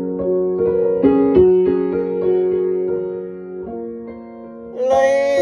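Piano playing a short instrumental passage of held, gently struck chords between verse and chorus of a folk ballad. A singing voice comes in near the end.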